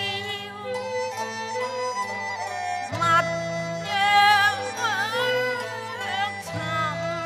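Cantonese opera music: a wavering, gliding melody line over a traditional instrumental ensemble with changing bass notes.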